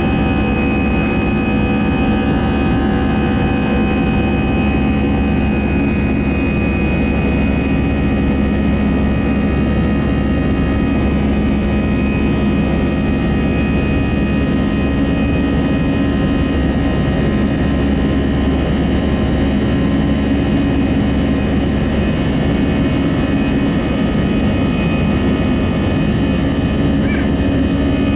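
Airbus A320 heard from inside the passenger cabin in flight: a steady roar of jet engines and airflow with several constant humming tones, unchanging throughout.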